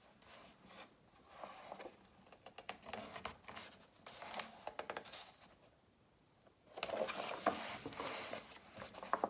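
Faint handling noise of a picture book: small clicks and paper rustles, then a louder rustle of a page being turned near the end.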